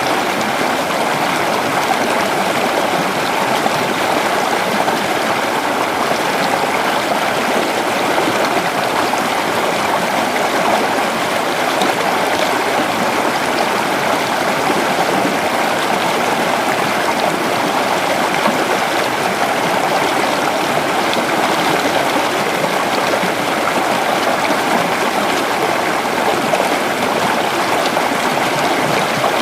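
Creek water flowing and babbling over rocks, a steady rushing with no breaks.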